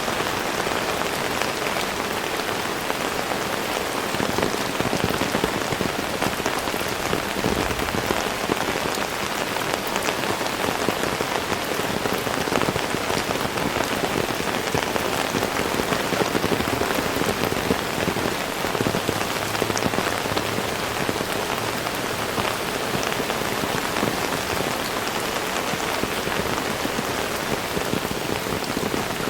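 Heavy rain falling steadily, a dense wash of noise with many close, sharp drop hits.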